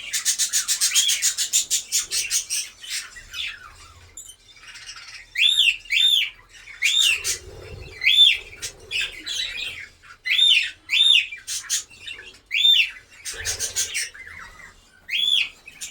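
Pet parrots calling: a fast chattering run of chirps for the first three seconds, then short, arched squawks repeated about ten times, sometimes two in quick succession.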